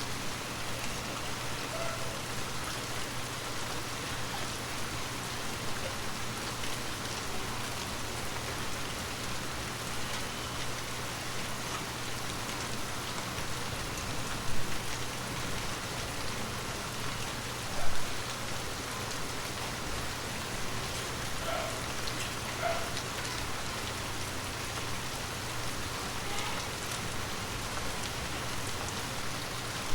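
Water drops tapping on glass in a steady, close patter, with a couple of louder drops about halfway through.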